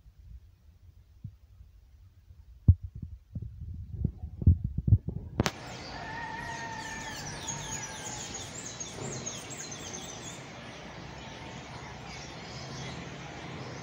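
Low thumps, as of handling or wind on the microphone, then about five and a half seconds in, birds singing: many quick high chirps and a few longer whistled notes over a steady outdoor hiss.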